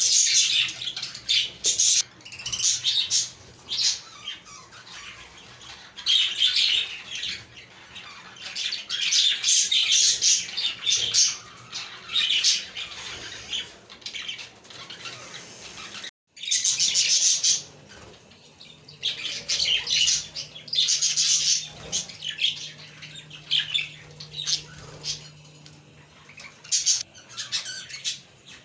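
A group of budgerigars chirping, warbling and squawking in irregular bursts, breaking off for a moment about halfway through.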